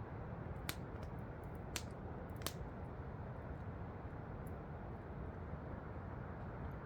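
Campfire crackling, with three sharp pops in the first half and fainter ticks after, over a steady rush of falling water.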